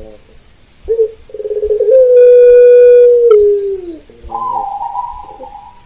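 Zebra dove (perkutut) cooing: a short note, then a long held note of about two seconds that drops in pitch at its end, followed by a higher note over lower falling ones.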